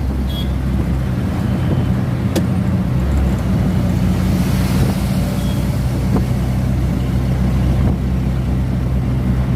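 Vehicle running steadily: a continuous low engine drone with road noise, and one sharp click a little over two seconds in.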